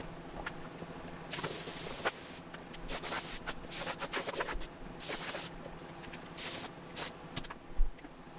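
Automotive paint spray gun hissing in repeated bursts of about half a second to a second each, spraying base coat, over a steady low hum.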